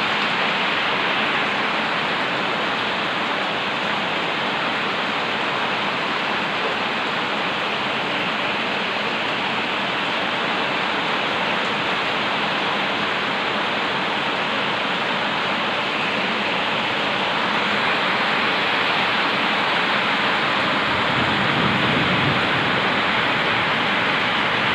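Heavy rain pouring steadily, a dense even hiss that grows slightly louder over the last several seconds.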